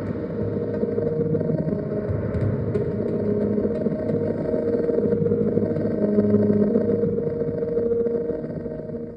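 Make Noise Shared System modular synthesizer playing a dense, droning outro of several held tones with a rough, rumbling texture. It fades over the last second and then stops.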